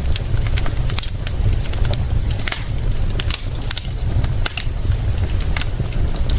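Fire crackling, with frequent sharp pops scattered irregularly over a steady low rumble and hiss.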